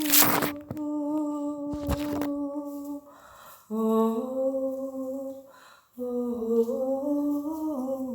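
A voice humming long held notes without words, in three phrases with short breaks between them; each note is held steady, and the later phrases sit lower and slide slightly in pitch. A short burst of noise sounds at the start and a click about two seconds in.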